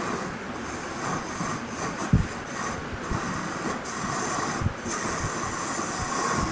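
A woodworking machine running steadily, with a few short low knocks, the strongest about two seconds in.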